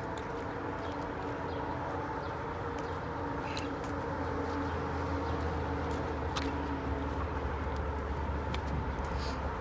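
Steady low rumble of motor traffic, with a constant hum and a few faint clicks.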